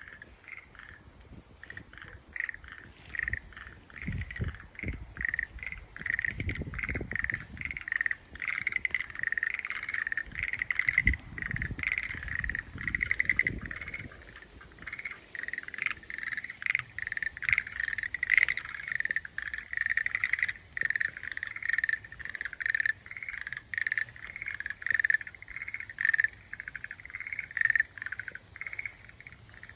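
A frog calling: rapid pulsed trills, high-pitched, repeated one after another almost without pause.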